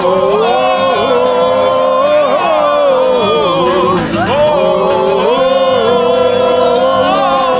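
Voices singing a song at a campfire sing-along, drawing out long held notes rather than clear words.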